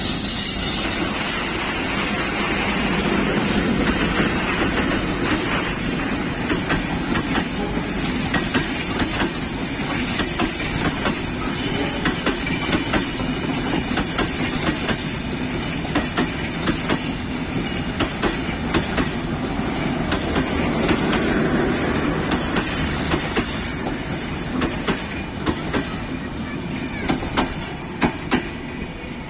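A diesel-electric passenger train passes. First comes its DL560C (WDM-3A) locomotive, an ALCO-design engine that is loudest over the first several seconds. A long rake of coaches follows, rolling by with wheels clicking over the rail joints. Near the end the clicks become fewer, separate clacks.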